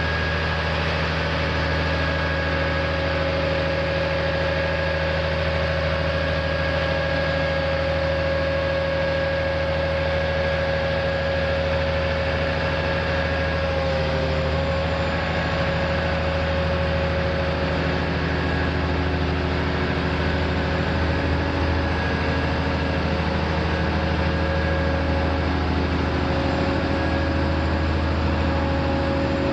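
Heavy vehicle engine idling steadily, a constant low hum with a few steady higher tones over it.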